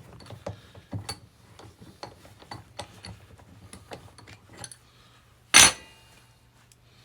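Steel parts of a Kurt milling vise and hand tools being handled during disassembly: a run of small metallic clicks and clinks, then one loud metal clank with a short ringing tail about five and a half seconds in.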